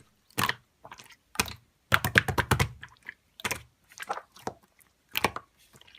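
Typing on a computer keyboard: irregular light key clicks, a few in quick clusters, with short gaps between them.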